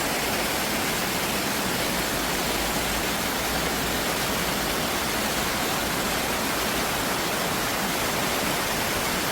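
Stream water rushing steadily over rocks, an unbroken, even roar.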